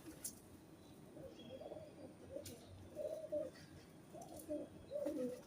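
Pigeons cooing: a run of low, soft, wavering coos, with a few faint clicks.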